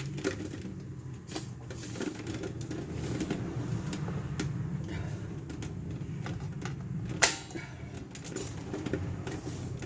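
Light metal clicks and taps of hand tools on drum brake parts as springs and clips are worked loose, with one loud sharp click about seven seconds in, over a steady low hum.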